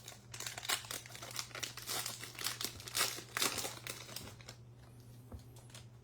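Plastic wrapper of a Topps Archives baseball card pack crinkling as it is torn open and handled, stopping about four and a half seconds in.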